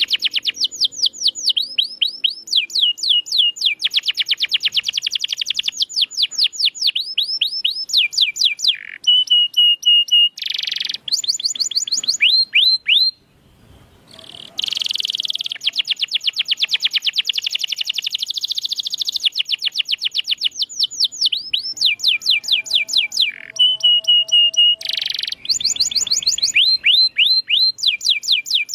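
Domestic canary singing a long song of fast trills, rapidly repeated falling notes that change to a new pattern every second or two, with a brief pause about halfway through.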